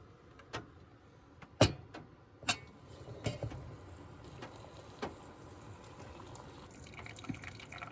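A few sharp clicks and knocks of objects being handled, the loudest about one and a half seconds in, with a faint hiss building in the second half.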